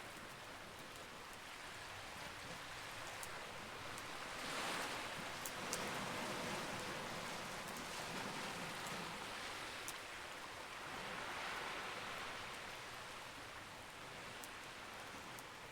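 Campfire crackling, with a few sharp pops standing out, over a steady rushing noise that swells and fades twice.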